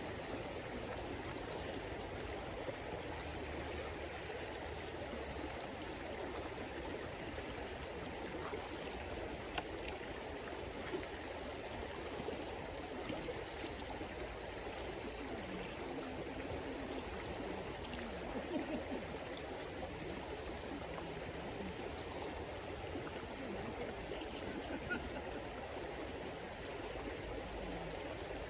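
River water flowing steadily, with a few faint sharp clicks now and then.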